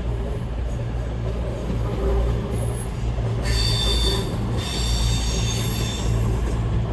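CrossCountry Class 221 Super Voyager diesel-electric unit running at the platform with a steady low diesel hum. A high-pitched squeal starts about halfway through, breaks off briefly, then stops about a second before the end.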